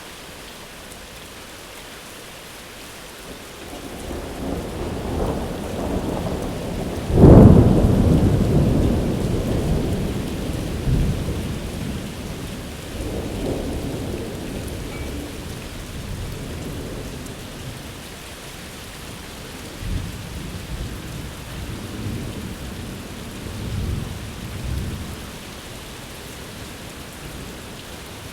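Steady rain falling, with thunder rumbling in. A loud thunderclap comes about seven seconds in and rolls on for several seconds. Fainter rolls of thunder come later.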